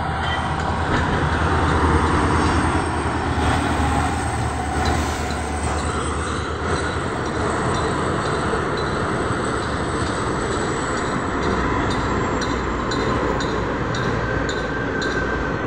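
Passenger train's coaches rolling past: a steady rumble of wheels on rails, loudest about two seconds in, with regular clickety-clack of the wheels over the rail joints through the second half.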